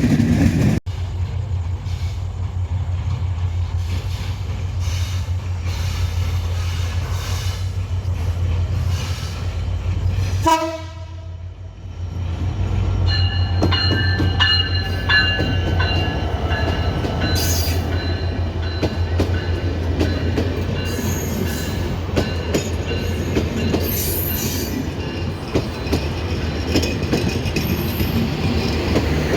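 A Bangladesh Railway diesel passenger train running by, with a steady low drone and rail noise throughout. About ten seconds in comes a brief pitched tone, and from about halfway thin high tones ring on over the running noise.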